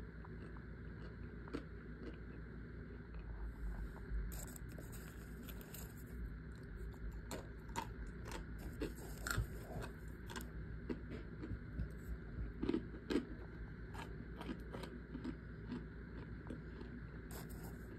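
Chunks of cornstarch being bitten and chewed: irregular crisp crunches and crackles, loudest twice about two-thirds of the way through, over a steady low hum.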